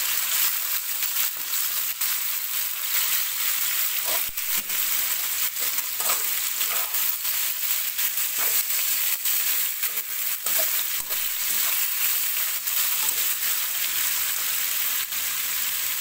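Chicken thighs sizzling steadily in hot oil with onions in a wok, with a few scrapes and taps of a wooden spatula as the pieces are turned.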